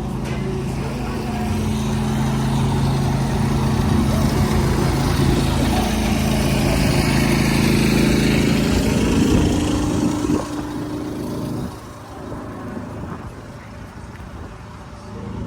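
A car engine running steadily with an even drone. It grows louder over the first several seconds and stops abruptly about twelve seconds in.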